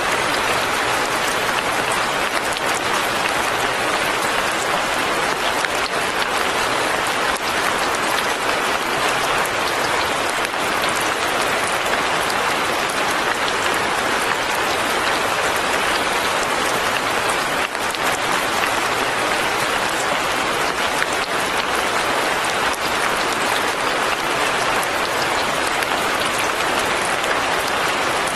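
Light rain falling steadily: a dense, even patter with no break or change.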